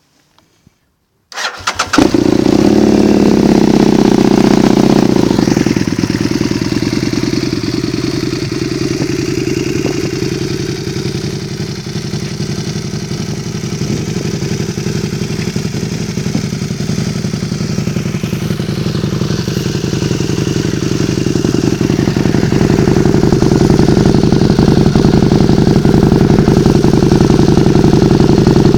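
Husqvarna Nuda 900 motorcycle with an aftermarket MSR exhaust being started: a brief crank a little over a second in, then the engine catches and idles, running faster and louder at first, settling lower, and growing louder again near the end.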